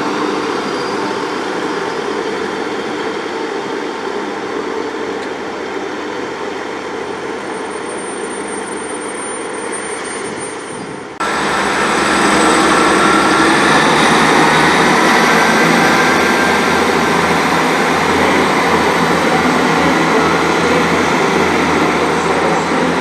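Diesel multiple-unit train running at a station platform, a steady engine and rail noise. About eleven seconds in it jumps abruptly louder, with a deeper engine hum and a high whine that rises in pitch.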